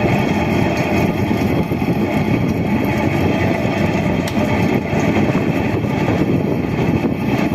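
Window air conditioner fan motor running loudly with a steady rough rattling drone: its bearings are worn out.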